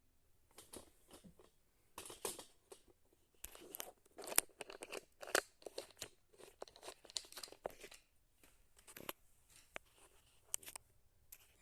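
Faint, irregular rustling, crackling and clicking from small objects being handled, in short scattered bursts with a few sharper clicks.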